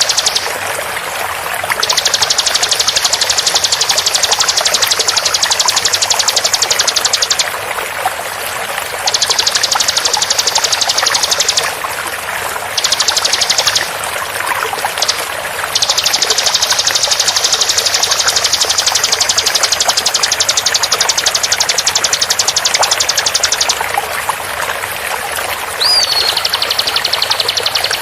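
Bar-winged prinia (ciblek) song in long bursts of very fast, densely repeated high notes, each lasting several seconds with short breaks between, over a steady sound of running water. Near the end a brief whistled note comes in before a slightly lower run of fast notes.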